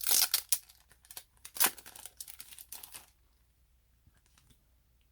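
Paper and plastic packaging being handled: a dense run of crinkling, tearing-like rustles for about three seconds, then a few faint ticks.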